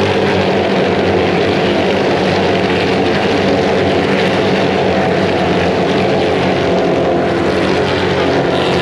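Several American V8 race engines running together in a steady, unbroken rumble.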